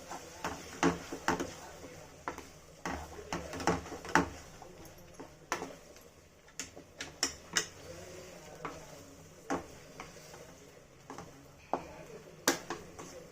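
A spoon stirring chicken fry in a kadai, knocking and scraping against the pan in irregular clinks, busiest in the first four seconds and sparser after.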